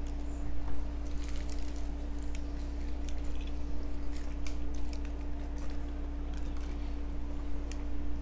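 Close-miked chewing of fried chicken wings: wet mouth smacks and many small scattered clicks as meat is bitten and pulled from the bone, over a steady low hum.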